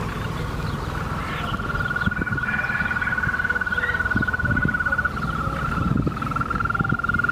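A frog calling in one long, even trill that starts about a second in and carries on for several seconds, broken briefly about six seconds in.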